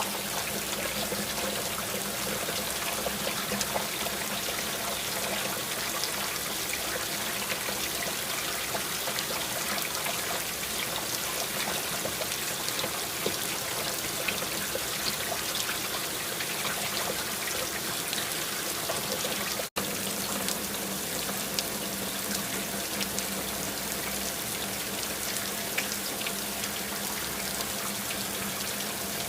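Steady rain falling, with many individual drops ticking over an even hiss of water. The sound cuts out for an instant about twenty seconds in.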